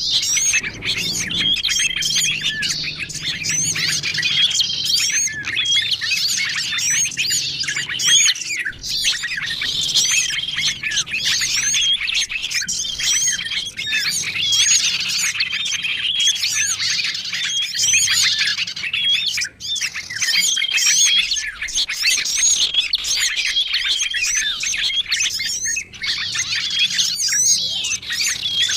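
Bird-lure recording of many small songbirds chirping and calling at once, a dense busy chorus of quick high notes. A short steady whistled note repeats every few seconds over the chatter. The mix is made to draw wild small birds in.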